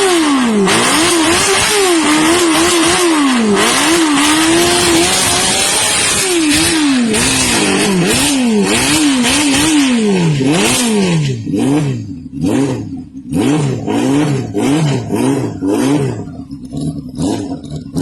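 Small motorcycle engine revving up and down over and over under a loud hiss. After about eleven seconds the hiss breaks up into quick, choppy bursts and the rise and fall of the revs speeds up.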